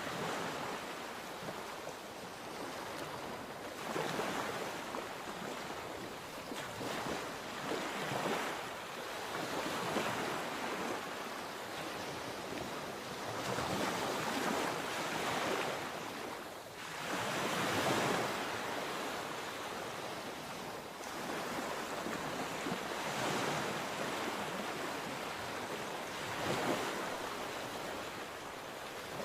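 Sea waves breaking and washing onto the shore, the surf swelling and fading every few seconds, with some wind on the microphone.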